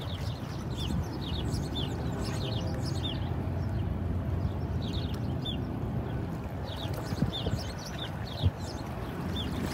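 Small birds chirping in quick runs of short, high calls, over a low, steady rumble.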